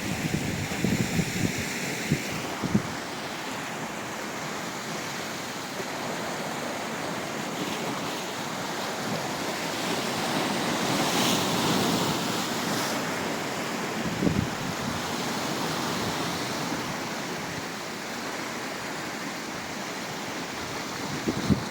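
Sea surf washing steadily with wind blowing across the microphone, swelling about halfway through, with a brief low thump about 14 seconds in.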